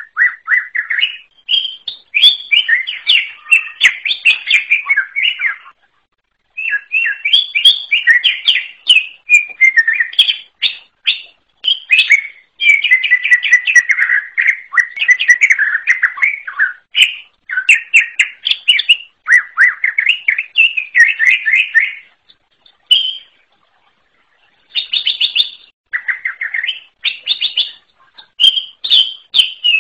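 Cucak ijo (greater green leafbird) singing long runs of rapid, varied chirping and warbling phrases. The song breaks briefly about six seconds in and again for a couple of seconds around 23 seconds.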